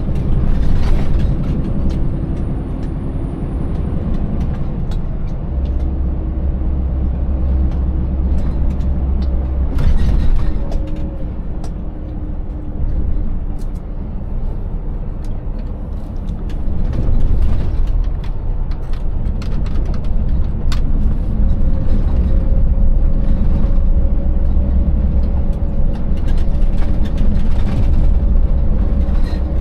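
Scania 590S truck's 16-litre V8 running under way, its steady drone shifting in pitch a few times, with scattered knocks and rattles from the truck over a broken road surface.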